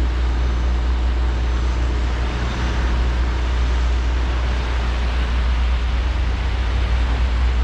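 Volvo 235EL excavator's diesel engine running steadily, a constant low hum under a wide even noise.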